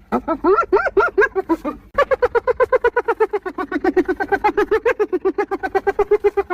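Spotted hyena giggling: a fast string of high, yelping notes, about seven a second, broken by a short pause just before two seconds in and then running on unbroken.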